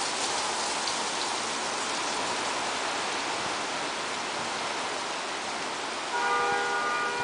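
Steady rain falling, an even hiss. Near the end a car horn sounds once for about a second and a half, a held chord of several tones.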